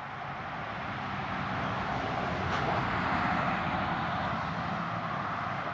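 A passing motor vehicle, its noise swelling to a peak about halfway through and then fading.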